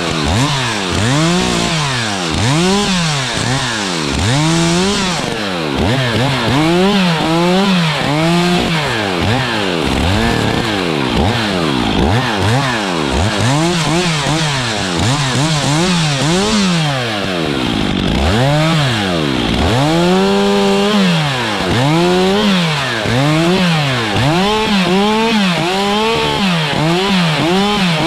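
Stihl two-stroke chainsaw revved up and let off over and over, roughly once a second, as it cuts brush and branches.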